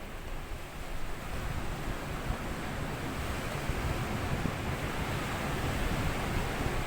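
Sea waves washing up on a sandy beach: a steady surf wash that swells louder over the course of a few seconds.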